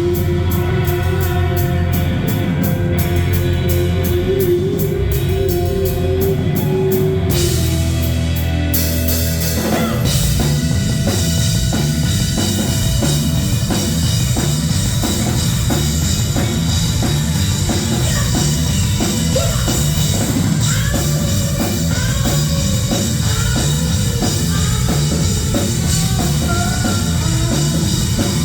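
Live rock band with drum kit and guitar. A held, wavering note over quick high ticking gives way, about ten seconds in, to the full band playing a steady, driving beat.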